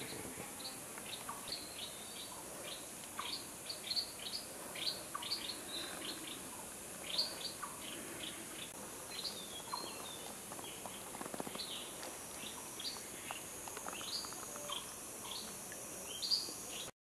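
Small birds chirping: many short, quick chirps, several a second, over a steady high hiss. The sound drops out for a moment at the very end.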